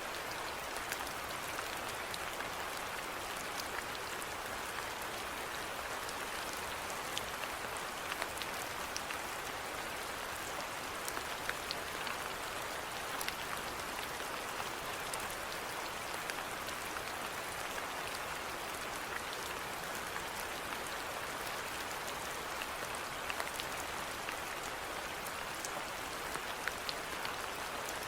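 Steady rainfall, an even hiss with scattered close drops ticking on surfaces.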